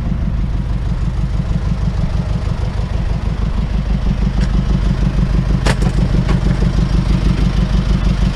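A vehicle engine idling with a steady low, pulsing throb. Three short sharp clicks come about halfway through.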